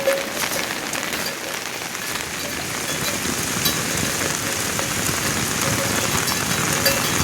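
A steady hiss with scattered light ticks and crackles.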